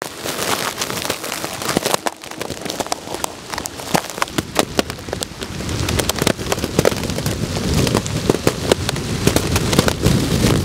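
Heavy downpour: a dense, steady hiss of rain with many sharp ticks of single drops striking close by. A low rumble rises under it about halfway through.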